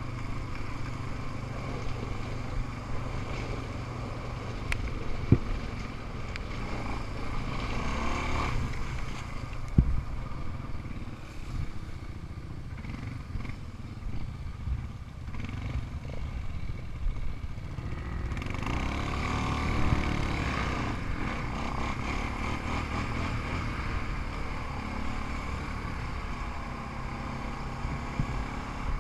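Off-road ATV and dirt bike engines running while riding over rough ground, with sharp knocks about five and ten seconds in. About two-thirds of the way through, an engine revs up and falls back.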